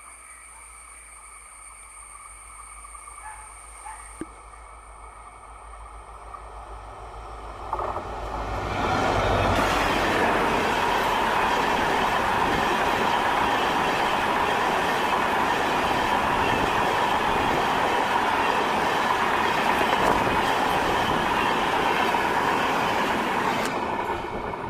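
Diesel-hauled passenger train approaching as a low rumble that builds for several seconds. From about nine seconds in it passes close by as a loud, steady rush of coaches and wheels on the rails, with clickety-clack and some wheel squeal, fading near the end.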